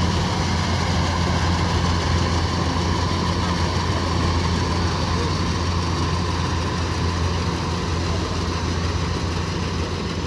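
Diesel engine of a Kubota DC-105X combine harvester running steadily with a deep, even hum, easing off slightly near the end.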